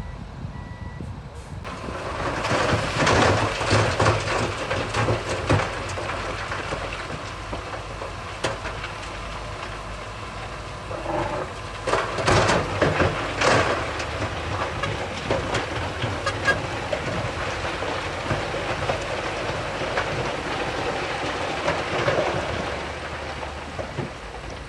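Bulldozer working, its steel crawler tracks clanking and rattling over the engine noise, starting about two seconds in. A reversing beeper sounds briefly at the start.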